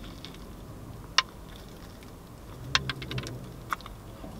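A person chewing a mouthful of soft fried chicken burger close to the microphone, with a few sharp mouth clicks: one about a second in and a quick cluster near three seconds.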